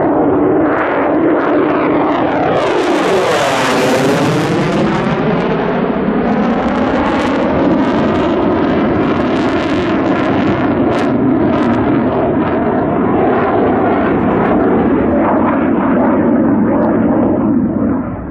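F-35 Lightning II fighter jet flying past, its single turbofan engine running loud and steady throughout. The tone sweeps and shifts with a swooshing, phasing sound as the jet passes, with the hiss at its loudest about three to four seconds in.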